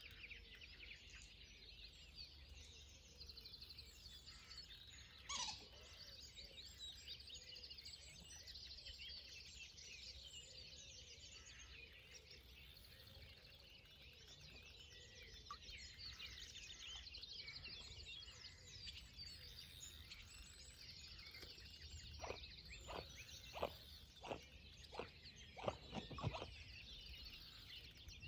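Faint birdsong, many small birds chirping and trilling at once, with one louder call about five seconds in. Near the end come about seven light knocks in quick succession.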